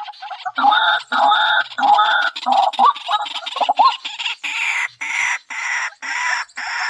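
Chicken calling in a rapid series of short clucks, turning into harsher squawks about halfway through.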